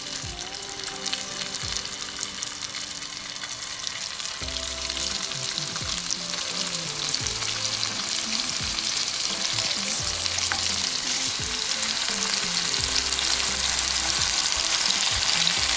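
Salmon fillets sizzling as they fry in hot olive oil in a pan, the sizzle growing steadily louder as more fillets go in. Faint background music with held low notes runs underneath.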